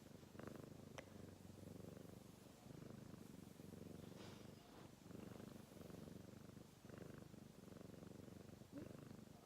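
Domestic cat purring softly, the purr swelling and fading with each breath about once a second.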